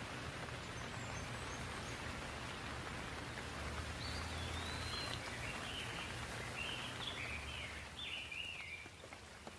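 Steady hiss of falling rain, with a bird calling a quick series of short chirping notes in the middle of the stretch, over a low steady rumble.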